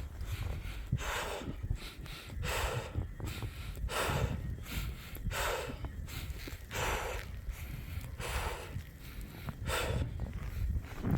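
A person walking through deep fresh snow: a regular noisy swish about every second and a half, over a low rumble.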